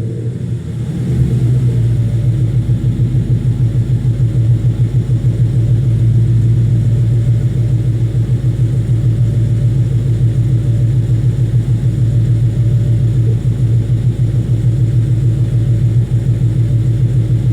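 2014 Mustang GT's Coyote 5.0 V8 idling steadily through Kooks long-tube headers, a catted H-pipe and Ford Racing sport axle-backs, with an even pulsing rumble.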